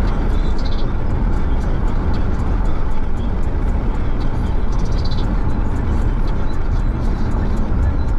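7th-generation Honda Accord driving, heard from inside the car: a steady low rumble of engine and road noise.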